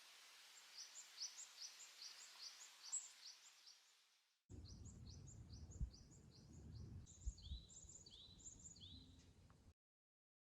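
Faint wild songbirds calling: rows of short, high chirps repeated a few times a second, joined about seven seconds in by a lower series of calls. The sound breaks off briefly around four seconds in and cuts off near the end.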